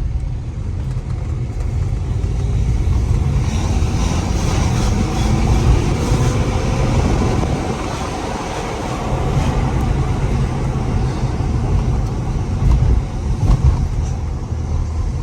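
BMW 318d's four-cylinder diesel engine running as the car is driven, over a heavy low road rumble, its note climbing between about three and seven seconds in as it accelerates.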